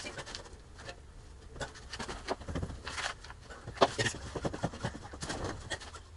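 Irregular metallic clicks and knocks of hand tools and metal parts during work on a transfer case, with a couple of louder knocks in the middle.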